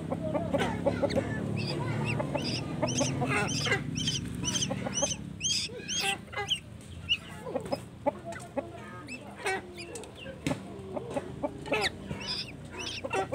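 Young birds chirping in many short, high, repeated calls over a low steady hum.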